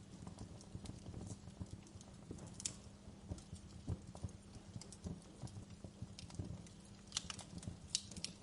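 Wood fire crackling and popping in a fireplace: irregular sharp snaps over a low, steady rumble of burning, with a few louder pops near the end.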